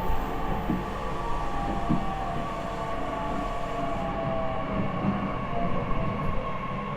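Running sound inside an E501 series electric motor car. The Toshiba IGBT inverter and traction motors whine in several tones that slowly fall in pitch as the train slows for a station, over a steady rumble of wheels on rail with a few faint thumps.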